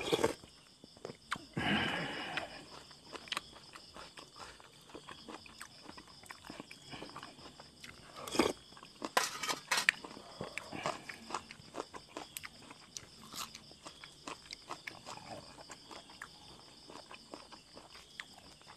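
Mouth sounds of eating tom yum with boiled buffalo skin: broth slurped from a spoon at the start and again a couple of seconds in and around the middle, with wet chewing clicks and crunches between. Crickets chirp steadily in the background.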